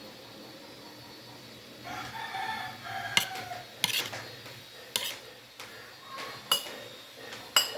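A rooster crows once, a held call of about a second, a couple of seconds in. It is followed by about five sharp clinks of cutlery against a plate.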